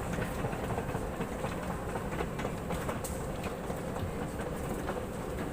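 Steady rumbling airport-terminal background noise with frequent light, irregular clicks while walking toward the aircraft.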